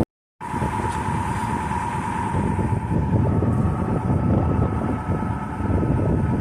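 Steady rumble of a sailboat motoring under way, with a faint steady whine over it. It starts just after a brief cut to silence.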